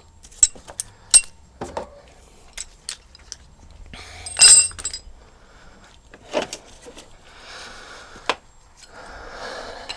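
Metal tools and parts being handled and set down: a run of sharp clicks and knocks, with one louder metallic clatter that rings briefly about four and a half seconds in.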